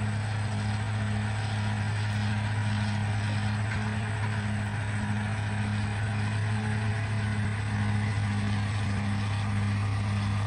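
Bulldozer diesel engine running steadily, a low hum with a regular throb.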